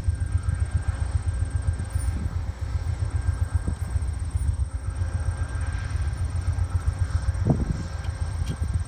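Passenger train rumbling low and steadily on the track, with one short knock about seven and a half seconds in.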